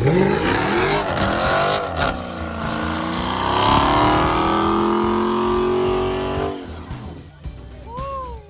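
Car engine revving hard with tyres squealing, as in a burnout. The revs climb at once, hold high for several seconds, then cut off about six and a half seconds in.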